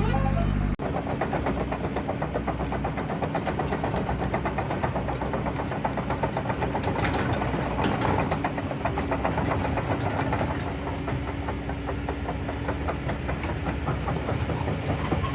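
Radio-controlled toy truck running: a small motor and gears with a fast, steady rattle.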